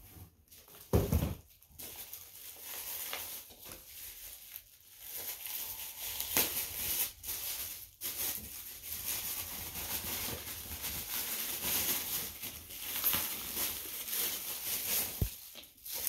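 Gift wrapping paper being torn and crumpled, a continuous crinkling rustle with many small crackles. There is a single low thump about a second in.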